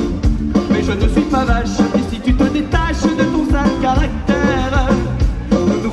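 Live band playing an upbeat Balkan-flavoured pop-folk song: accordion, banjo, bass guitar and drum kit on a steady beat, with a wavering lead melody over it.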